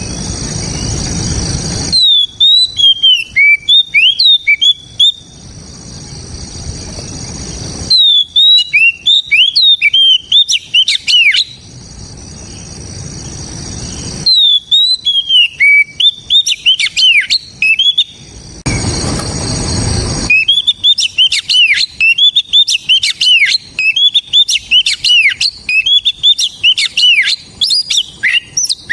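Oriental magpie-robin singing loudly in fast runs of clear whistled notes that slide up and down. The song comes in four phrases, the last and longest starting about twenty seconds in. Between phrases a background hiss swells.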